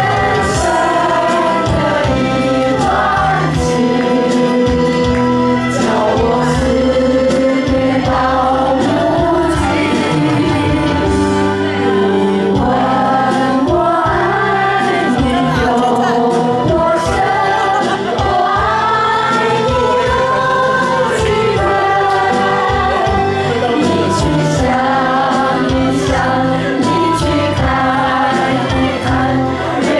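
Song with several voices singing together over music, with held, wavering notes.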